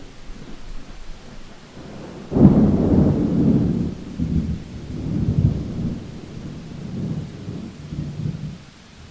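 Thunderstorm: a thunderclap breaks sharply about two and a half seconds in and rolls on in several low rumbles that die away near the end, over steady rain.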